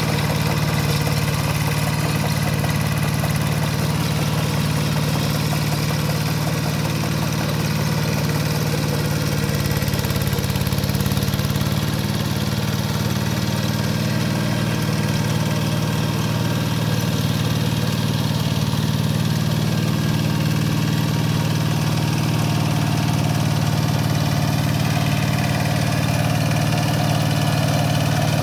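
Kubota K700 power tiller's single-cylinder diesel engine running steadily at a constant speed.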